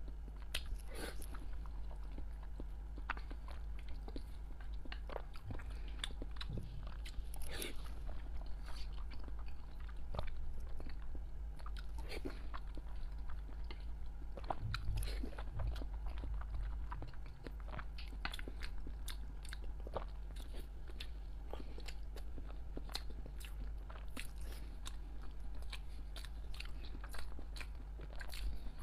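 A person chewing and biting boiled eggs and century eggs in chili sauce, close to a clip-on microphone, with many short mouth clicks scattered irregularly, over a steady low hum.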